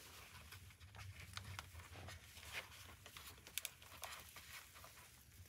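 Near silence with faint scattered clicks and rustles of hands working an intercom cable and plastic fittings inside a motorcycle helmet, with a couple of sharper clicks about three and a half seconds in, over a faint steady low hum.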